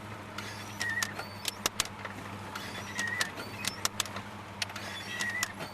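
Wood-gas-fuelled pickup truck driving, heard from inside the cab: a steady low engine hum under frequent cab rattles and clicks, with a short squeak about every two seconds.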